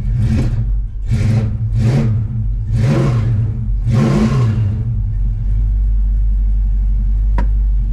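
Dodge Dart engine, cold and running on an aftermarket intake without the exhaust crossover, blipped five times in quick succession and then settling into a steady idle. A single click sounds near the end. It is a bit cold-natured.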